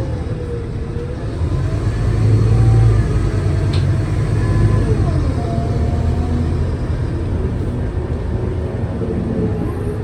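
Scania K320UA city bus driving, a low engine rumble that swells about two seconds in, with thin whines gliding up and down in pitch. A brief sharp click near four seconds.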